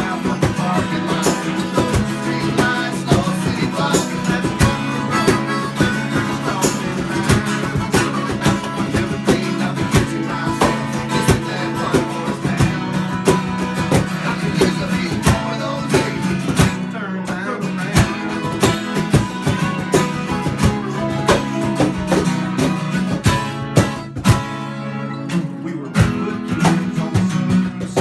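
Americana country band playing a song live, acoustic guitar strumming over a steady beat.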